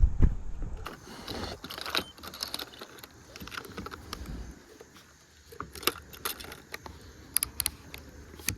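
Small metallic clinks and rattles with light handling knocks as fishing gear is handled while weighing a caught bass on a scale.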